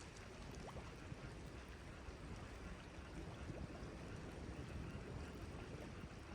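Steady wash of sea waves along the shore.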